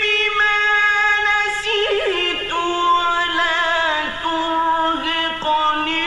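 Male reciter's voice in melodic mujawwad Quran recitation, holding one long drawn-out vowel. About two seconds in the note breaks into a quavering ornamental turn and settles lower, still on the same breath.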